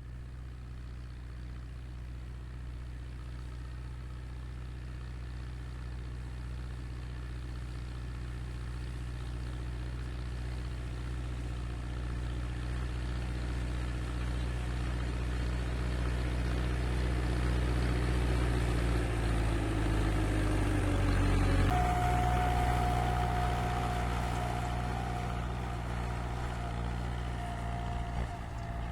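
Tractor engine running steadily and growing louder. About two-thirds of the way through its note shifts and a steady high whine joins it.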